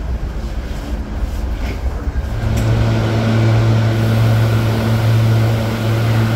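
Low rumble inside a SEPTA regional rail car, then an abrupt change to a steady low electric hum with overtones from a stopped SEPTA electric train standing at the platform, with a short click at the change.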